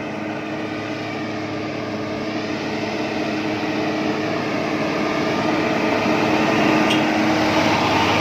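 Hino Victor 344 container truck's diesel engine pulling uphill under load, growing louder as it approaches and peaking near the end.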